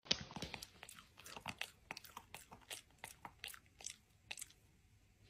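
Faint crunching of something being chewed: a string of short, crisp clicks at uneven intervals, stopping about four and a half seconds in.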